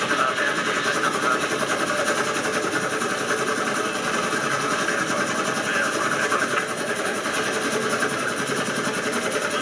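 Helicopter in flight: a steady engine and rotor drone with a fast, even chop.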